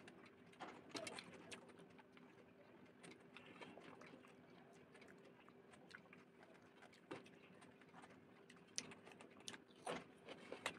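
Faint close-up eating sounds: chewing and wet mouth noises as a handful of rice and curry is eaten by hand, with soft squishes and scattered light clicks of fingers mixing rice on a steel plate.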